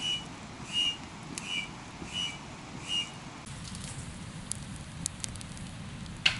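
A bird calls in short, high whistled notes, about one a second, for the first three seconds. A few sharp crackles from a wood campfire follow, and there is one sharp knock near the end.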